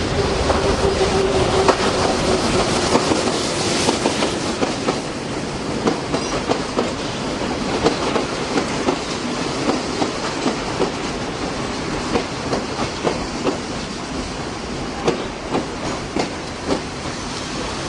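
Train running on the rails: a steady rumble with the clickety-clack of wheels knocking over rail joints, several knocks a second, irregularly spaced. A faint steady tone sounds in the first couple of seconds and fades away.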